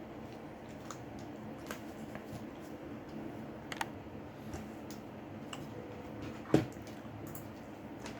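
Small clicks and taps of hand tools against a Samsung Galaxy J6's plastic and metal parts during disassembly, with one louder knock about six and a half seconds in, over a steady low hum.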